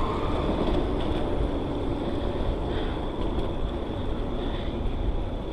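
Steady wind rush and tyre rolling noise on an action camera's microphone during a bicycle ride.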